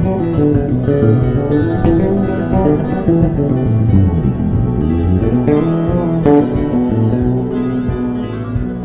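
Instrumental background music: a plucked-string, guitar-like melody over bass and drums.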